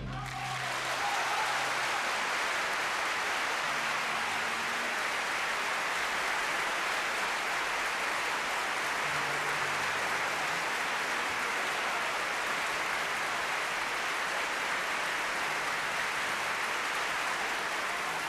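Concert-hall audience applauding steadily after a live organ-and-orchestra performance, easing off near the end.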